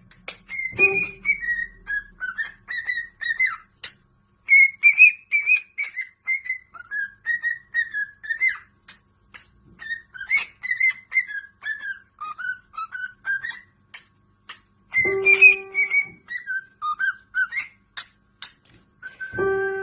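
A parrot whistling a warbling tune in a string of gliding phrases, with short pauses between them.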